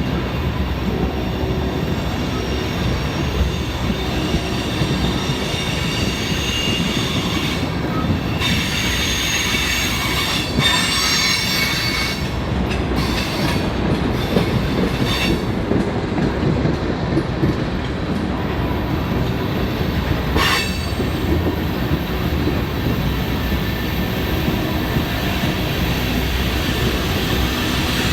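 A train's cars rolling past on the rails in a steady, loud rumble, with short high-pitched wheel squeals several times in the middle and one sharp squeal near two-thirds of the way through.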